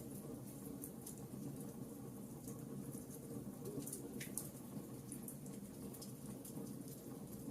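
Wood fire in a fireplace crackling: a steady low rush of flames with scattered small sharp pops and crackles.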